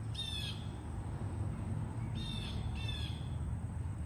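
Harsh, crow-like bird calls, three short caws: one at the start and two close together about two seconds in.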